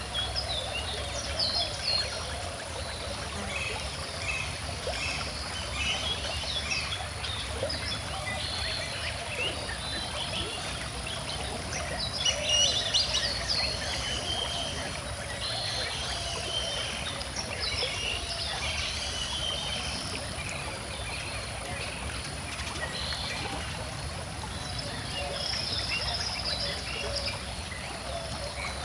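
Stream water flowing steadily with a continuous babbling rush, while many small birds chirp and sing over it, busiest about twelve seconds in.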